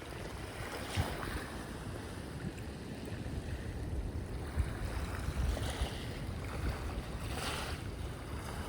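Sea waves washing in, with wind rumbling on the microphone; a few louder washes of surf stand out, about a second in and again late.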